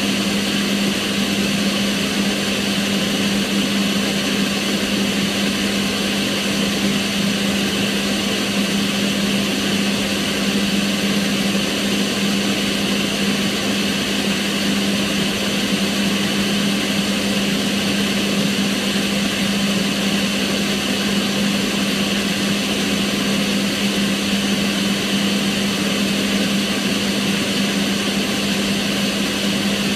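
Kitchen range hood extractor fan running steadily: a constant rush of air with a strong, unchanging hum under it.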